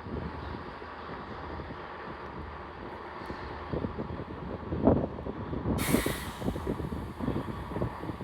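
Class 68 diesel locomotives running, a low engine rumble that grows louder toward the end, with a sudden sharp hiss of air about six seconds in.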